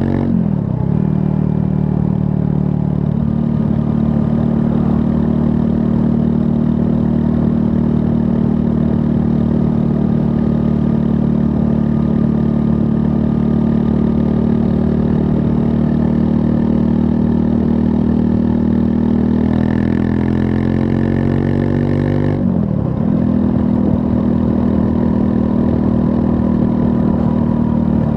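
Triumph Scrambler 400 X's 398 cc single-cylinder engine running under way at steady revs, with a quick dip and recovery in pitch about half a second in. About three-quarters through, the revs climb slowly, then drop sharply and pick up again, as in a gear change.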